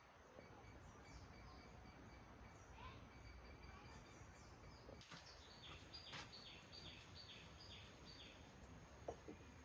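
Faint bird calls: a run of short, falling chirps, about three a second, starting about five seconds in, over a low background hiss of outdoor ambience.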